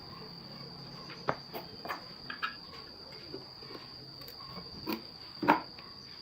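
Steady high-pitched insect trill, typical of a cricket, with scattered light clicks and knocks; the loudest knock comes about five and a half seconds in.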